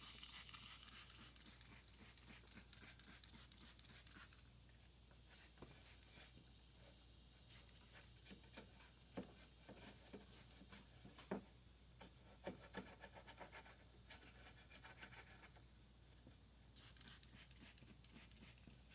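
Near silence, with a faint steady high tone and a few faint, scattered clicks.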